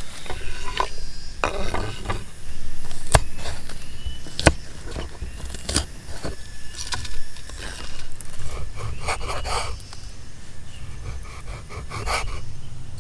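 Irregular scraping and rubbing with a few sharp clicks, over a steady low rumble.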